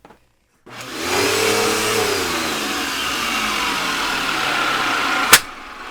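Eureka vacuum cleaner motor switched on by accident: it whirs up about a second in and runs steadily with a loud rush of air, then a sharp click near the end, after which the sound drops away.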